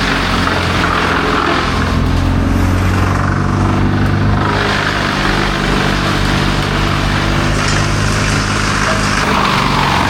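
A large engine running steadily under load, with a harsher noisy layer that swells and fades several times over it.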